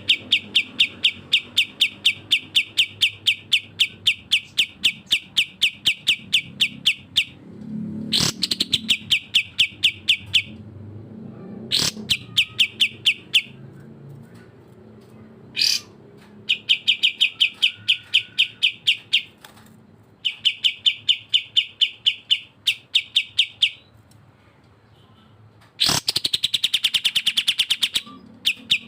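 Songbirds from a masteran bird-song tutor track of cucak jenggot and kapas tembak: long runs of rapid, evenly repeated high chip notes, about four or five a second, stopping and restarting several times. Sharp falling whistles cut in about 8 seconds in and again near the end.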